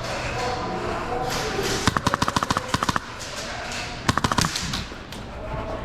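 Airsoft gun firing two rapid full-auto bursts: a burst of about a second about two seconds in, then a shorter one a second later.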